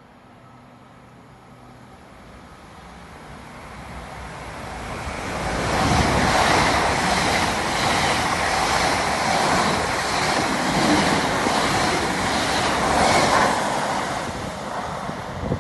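A train passing at speed: the rush of wheels on rail swells up over about six seconds, stays loud for about eight seconds with a regular beat of roughly one and a half a second as the carriages go by, then starts to fade near the end.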